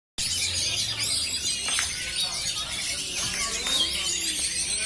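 Many oriental magpie-robins (kacer) singing at once: a dense, unbroken chorus of overlapping whistles, trills and chirps from several birds.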